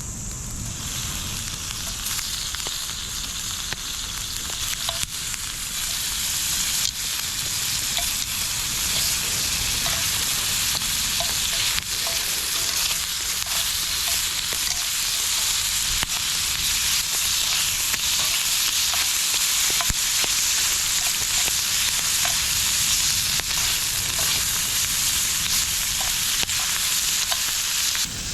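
Food sizzling in a hot pan: a dense, steady hiss that grows louder over the first few seconds and then holds, with small scattered pops.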